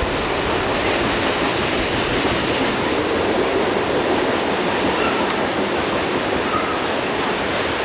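Freight train rolling on the rails: a steady, even rumble of wheels on track.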